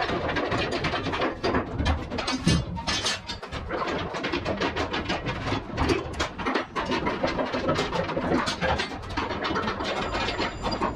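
Irregular metallic clanking and rattling of container lashing gear being handled, over a steady low mechanical drone.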